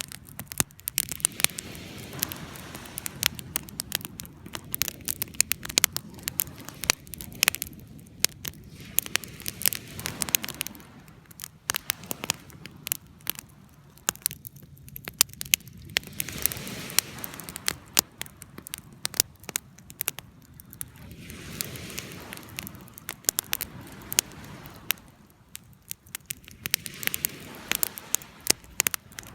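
Wood fire crackling, with many sharp pops and snaps of burning wood over a low rush of flame that swells and eases every few seconds.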